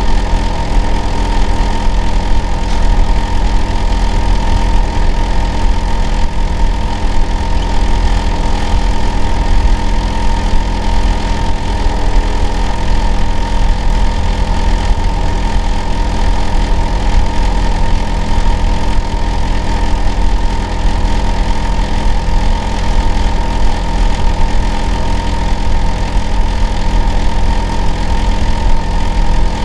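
Hitachi air-conditioner outdoor unit running steadily in winter heating operation: a loud low hum with several constant tones above it, one higher tone standing out. The uploader, who lives next door, calls the noise abnormal and very loud.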